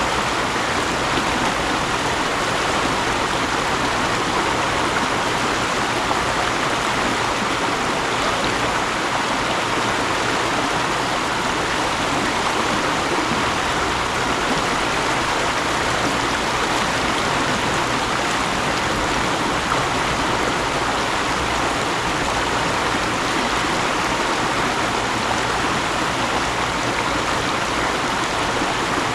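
Mountain stream rushing over rocks, a steady even splashing and gurgling of running water.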